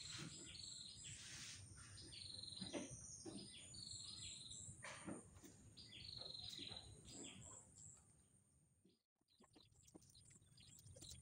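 Faint chirping of small birds: series of short, high calls repeated every second or so, with a few light clicks. The sound fades out about nine seconds in.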